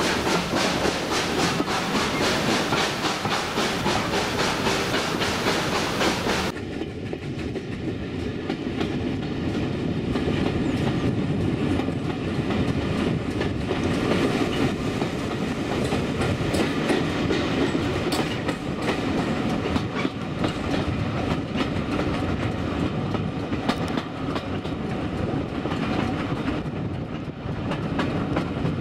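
Steam-hauled passenger train running along the line, heard from a carriage window: a steady running noise with the wheels clicking regularly over the rail joints. About six seconds in, the hiss in the upper range drops away suddenly while the running noise and clicks carry on.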